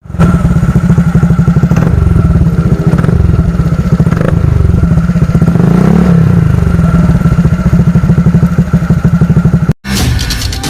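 Honda Scoopy scooter's single-cylinder engine running at idle through a VND Racing AK 777 B1 aftermarket exhaust: a bassy, even exhaust beat, with a brief rise and fall in pitch around the middle. It cuts off abruptly near the end and music begins.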